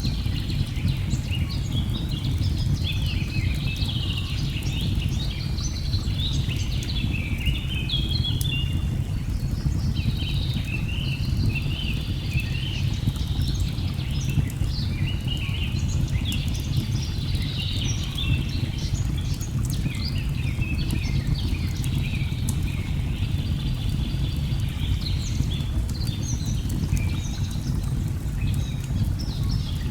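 Rainforest ambience: many birds chirping and singing continuously over a steady low rush of falling water, with faint scattered crackles.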